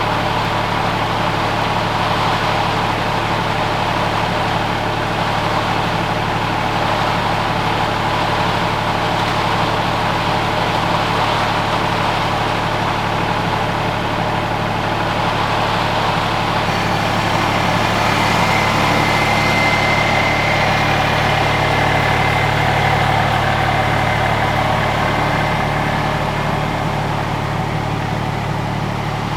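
A motor running steadily with a constant low hum. It grows a little louder about 17 seconds in, with a faint high whine added for several seconds.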